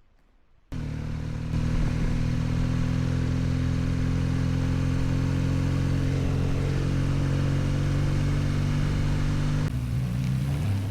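Motorcycle engine running steadily at an even pitch, cutting in abruptly about a second in; its note shifts slightly near the end.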